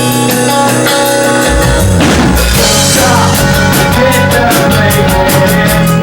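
Rock band playing: guitar notes ringing, then the drums and cymbals come in fully about two seconds in, with steady cymbal strokes after that.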